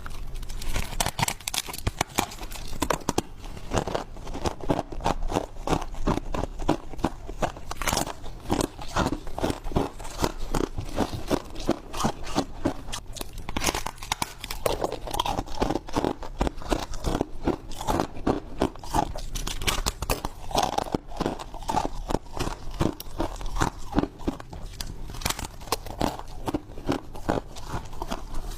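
Freezer frost being bitten and chewed: a continuous run of crisp crunches, several a second.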